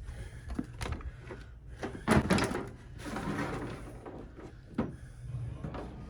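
Scrap metal being handled and set into a bucket on a scale: scattered knocks, a cluster of clattering strikes about two seconds in, a rustle just after, and a single sharp click near the end.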